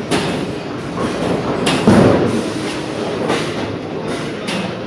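Bowling alley lane noise: a continuous rumble of bowling balls rolling down the lanes, broken by sharp clattering crashes of pins. The loudest crash comes about two seconds in.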